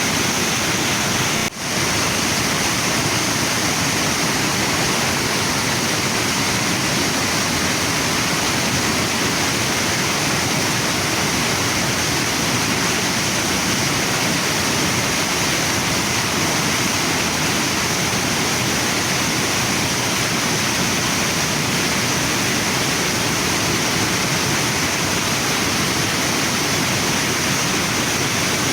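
Waterfall and river rushing in a steady, even roar of water, with a momentary dip in level about a second and a half in.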